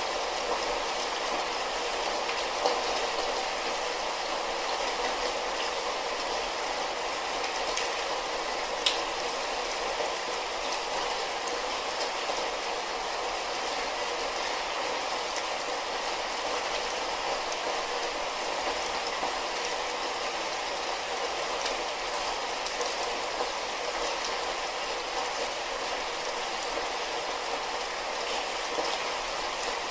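Light rain falling steadily as an even hiss, with a few sharper drop ticks standing out now and then.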